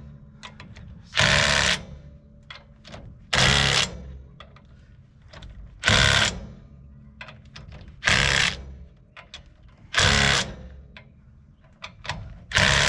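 A power tool run in short bursts: six pulls of about two-thirds of a second each, roughly two seconds apart, with faint clicks and handling noise in the gaps.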